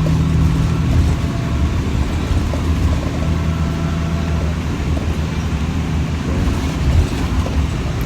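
City transit bus running, heard from inside the passenger cabin: a steady low engine hum with road noise.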